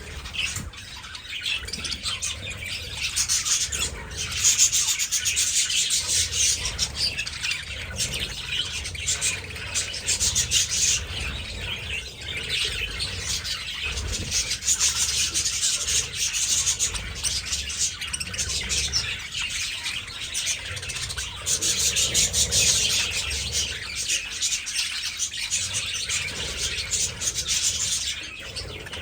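A flock of budgerigars chattering, a steady stream of many overlapping chirps and warbles.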